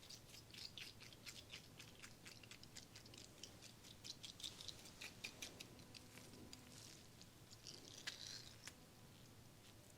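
Faint, irregular sticky clicks and crackles of fresh aloe gel being worked onto an applicator and dabbed close to the microphone.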